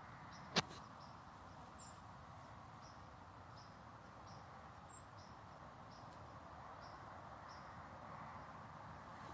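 A single sharp click about half a second in, over a quiet outdoor background of faint, high, short chirps repeating about once a second.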